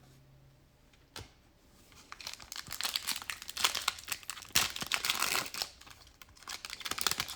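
Plastic trading-card pack wrapper crinkling and tearing as it is ripped open, a dense run of crackles starting about two seconds in and lasting about five seconds.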